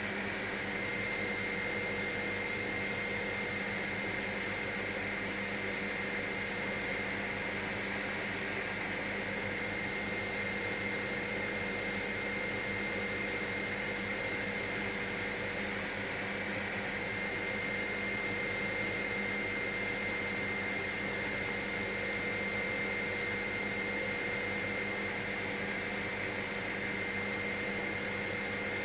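Helicopter in cruising flight heard from inside the cabin: a steady drone from the engine and rotors, with a constant high-pitched whine.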